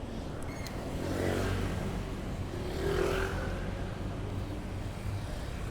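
Road traffic: a motor vehicle's engine swells as it passes, about a second in and again about three seconds in, over a steady low rumble of traffic.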